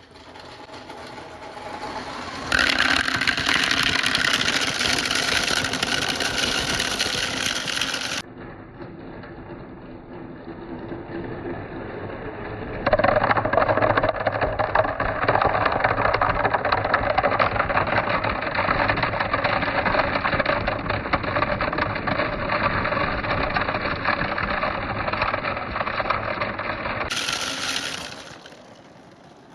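Marbles rolling and rattling continuously down a handmade marble run, in several stretches that change abruptly from one to the next.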